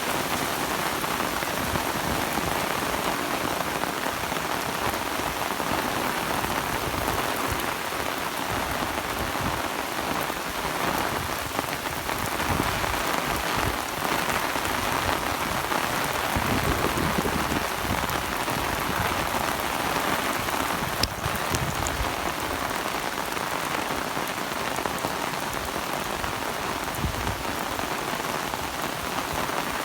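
Steady rain falling, an even hiss without let-up, with a single sharp click about two-thirds of the way through.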